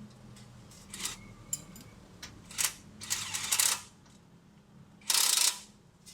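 A ratchet wrench being worked in short bursts of clicking, with metal tool clatter, during suspension work; the loudest burst, about half a second long, comes near the end.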